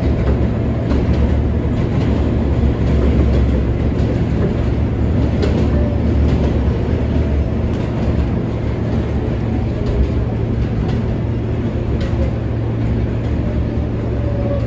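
R143 subway train running along the track, a steady rumble of wheels and car body with occasional sharp clicks.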